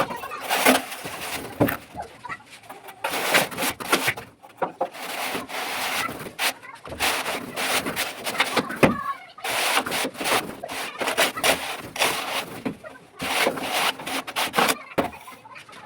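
A plastering tool rubbing and scraping over fresh ceiling plaster in repeated strokes, some short and some lasting a second or two, with brief pauses between.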